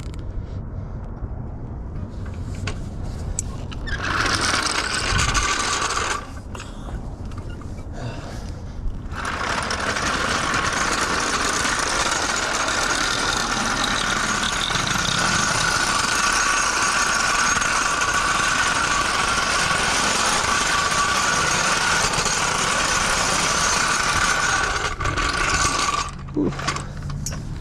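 A machine runs in two stretches: a short one about four seconds in, and a long steady one from about nine seconds in until shortly before the end.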